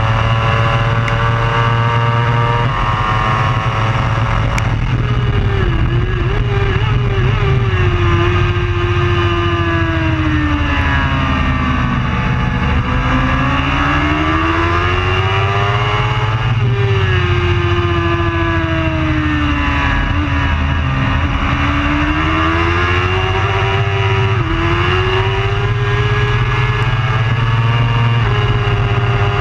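Superbike racing engine held at high revs, its pitch falling and climbing in long sweeps as it brakes and accelerates, with a couple of sudden pitch steps from gear changes in the first three seconds.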